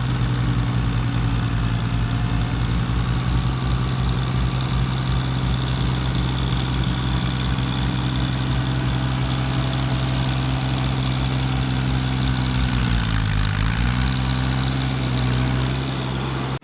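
Mahindra eMax 20S HST compact tractor's diesel engine running steadily. About three-quarters of the way through, its speed sags briefly and then comes back up.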